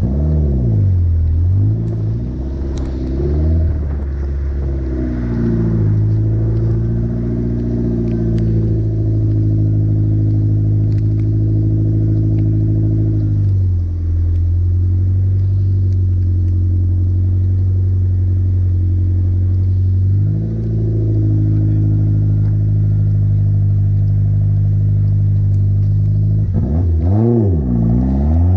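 Car engine idling with several short throttle blips. The idle drops lower about 14 seconds in and picks up again around 20 seconds. Near the end it revs hard, rising and falling several times, as the car launches off the start line.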